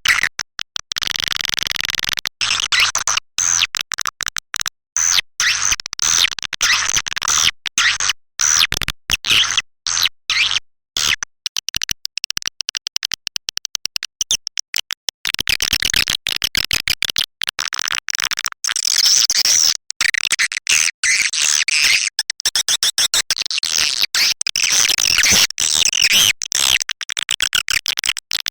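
Swiftlet lure call: a recording of edible-nest swiftlet twittering, played to attract swiftlets to a swiftlet house. Dense, high chirps run on, cut by many abrupt brief gaps.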